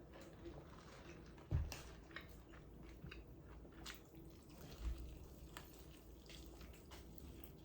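Close-miked eating: faint wet chewing and small mouth clicks from a person eating KFC food, with two soft low thumps, about a second and a half in and near five seconds.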